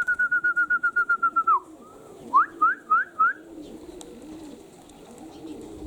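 Domestic pigeons cooing over and over at the loft. Over them, a fast high trill lasts for about the first second and a half, and four quick rising whistled notes follow a second later.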